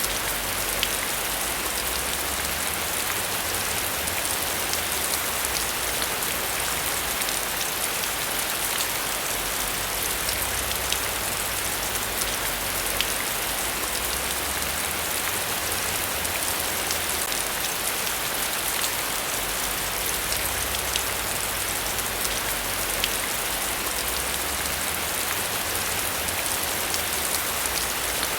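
Steady heavy rain, a dense even hiss with the crisp ticks of individual drops striking a surface, over a low rumble that rises and falls slowly.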